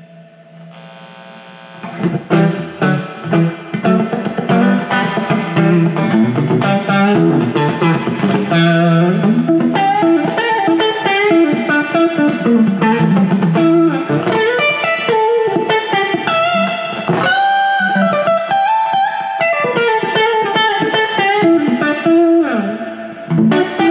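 PRS SE Silver Sky electric guitar with three single-coil pickups, played straight into a Fender Deluxe amp. A quiet chord rings out, then about two seconds in the playing picks up into a run of single-note lines and chords.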